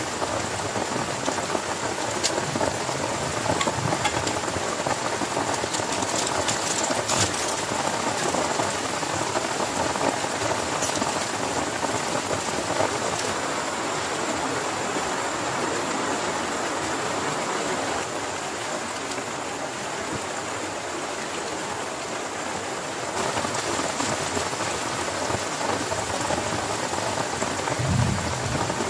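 Heavy rain falling steadily on a tent, a dense even patter with scattered sharper drop hits.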